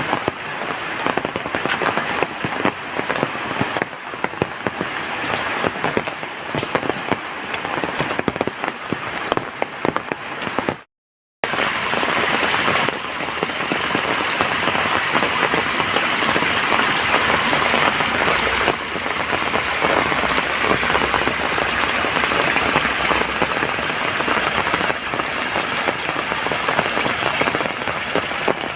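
Heavy rain falling steadily, a dense hiss of many close drop impacts. The sound cuts out completely for about half a second around eleven seconds in, then comes back a little fuller and steadier.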